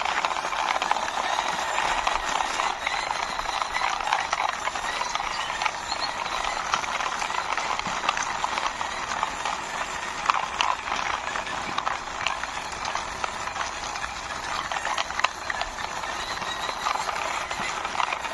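Toy mixer truck pushed along by hand, its plastic wheels rolling over the surface with a steady rattling scrape full of small clicks.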